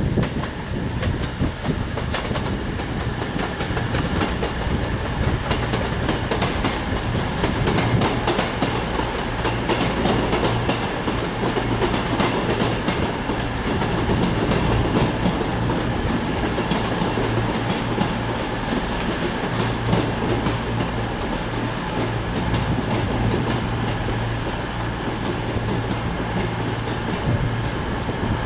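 A train moving through the station: its wheels click over the rail joints without a break, over a steady low hum.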